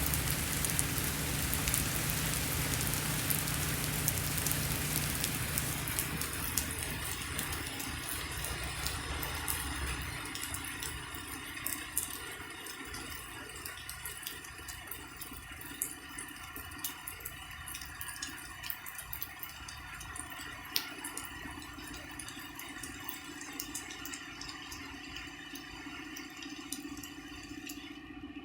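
Rain falling, dense at first, then easing after about six to ten seconds into lighter rain with scattered separate drops and drips. A low steady rumble underneath stops about ten seconds in.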